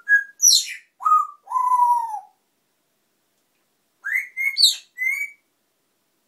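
Pet African parrot whistling: a string of short clear whistles and quick falling sweeps, a pause, then a second burst of several short whistles about four seconds in.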